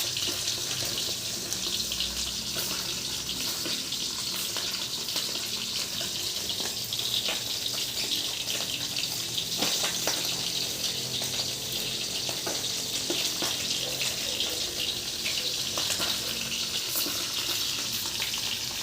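Food frying in a pan: a steady sizzling hiss with scattered pops and crackles.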